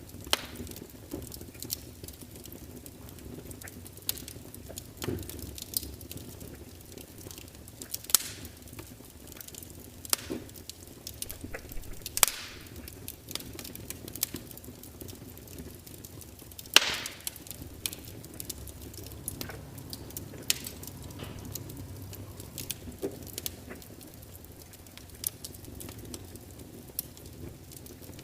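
Log fire burning: a steady low hiss with frequent sharp crackles and occasional louder pops.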